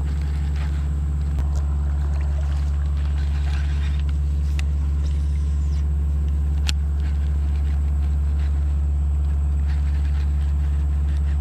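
A steady low hum that holds the same pitch and level throughout, with two sharp faint clicks partway through.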